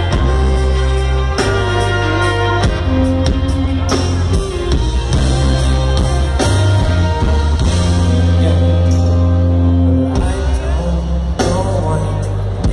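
Reggae band playing live: an instrumental intro with a heavy, sustained bass line under guitar chords.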